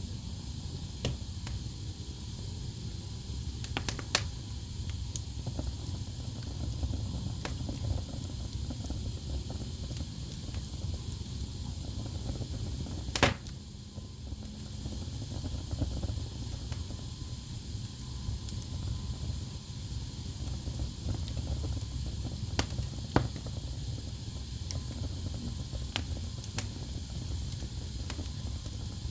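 Wood fire in a fireplace crackling: a steady low rumble of burning logs with scattered sharp pops, a few louder ones, the loudest about halfway through.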